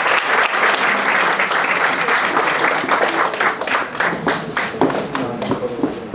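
Audience applauding, a dense round of clapping that thins to scattered claps over the last couple of seconds.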